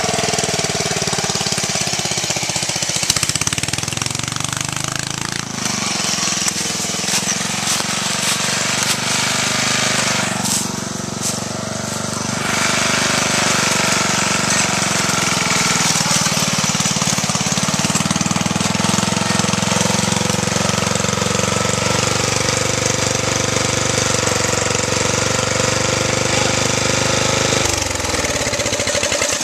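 Riding lawn mower's small engine running loud and rapid-firing through a straight pipe, its exhaust blown off; the revs rise and fall as it drives, dropping sharply and climbing again near the end.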